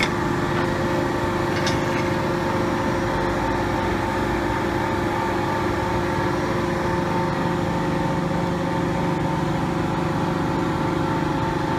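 Hydraulic CNC punching machine running with a steady, even hum that holds constant pitches throughout, with a faint click or two near the start and no heavy punch strokes.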